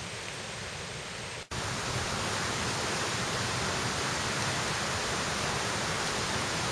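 Steady rushing of a mountain stream and waterfall. It drops out for an instant about one and a half seconds in and comes back louder.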